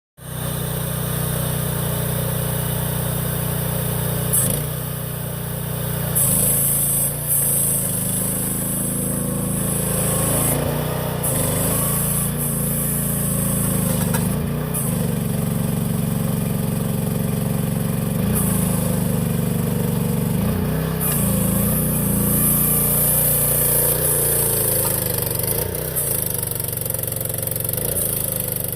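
Mini excavator's 13.5 hp Briggs & Stratton gasoline engine running steadily, its note dipping and rising several times as it takes and sheds load, with a hiss that comes and goes.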